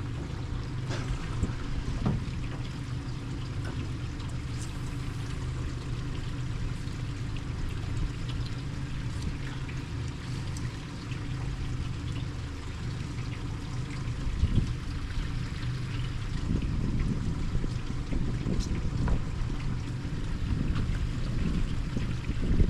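Small fishing boat on the water: a steady low hum with water trickling and sloshing around the hull, and a few light clicks.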